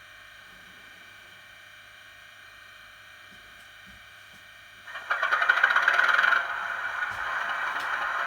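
A Bachmann Class 37 model locomotive's DCC sound decoder playing an English Electric diesel engine start through an upgraded bass-enhanced speaker. A quiet steady hum first; about five seconds in the engine catches with a loud, fluttering burst and then settles into a steady idle.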